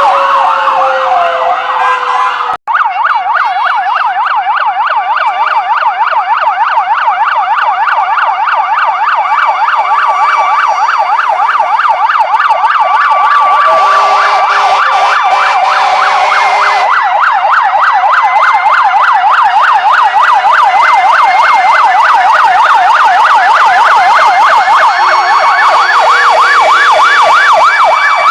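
Several fire truck sirens sounding at once: one in a fast yelp that warbles several times a second, others in slower rising and falling wails. The sound cuts out for an instant about two and a half seconds in.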